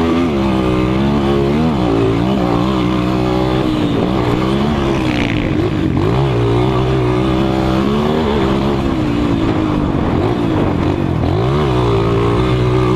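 Several 200 cc motocross bikes racing, their engines revving up and down over one another with constantly rising and falling pitch.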